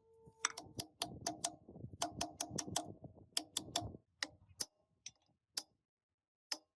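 Light metallic taps and clicks of a hand tool on metal machine parts, about three to four a second at first, then slowing to a few separate taps.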